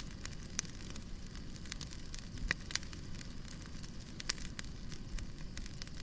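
Fireplace crackling: a steady low rumble of burning with irregular sharp pops and snaps of the wood.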